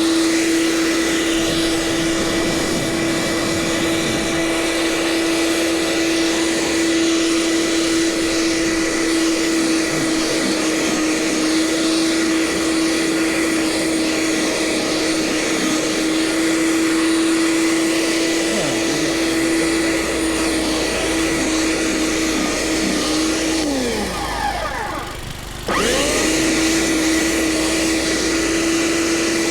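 Gasoline snow blower engine running steadily at full speed. Near the end its note sags and drops away for about two seconds, then jumps straight back up.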